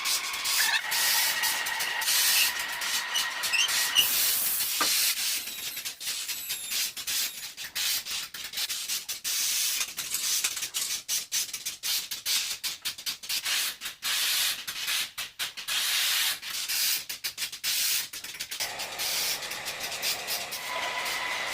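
Factory machine noise: a steady hiss with rapid irregular scraping and rasping, and a thin steady whine at the start and again near the end.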